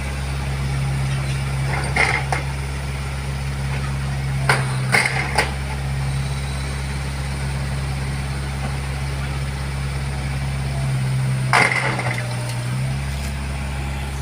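Backhoe's diesel engine running steadily, with sharp metal clanks about two seconds in, three close together around five seconds in, and one more near twelve seconds, where the engine note briefly changes.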